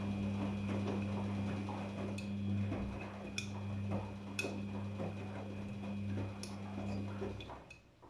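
Daewoo DWD-FT1013 washing machine running in its rinse cycle: a steady motor hum under a rough churning sound, with a few sharp clicks. It stops about seven and a half seconds in.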